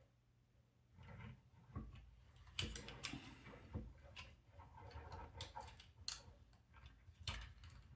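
Small plastic robot-kit parts being handled and pushed into place: irregular faint clicks, knocks and rustles, starting about a second in.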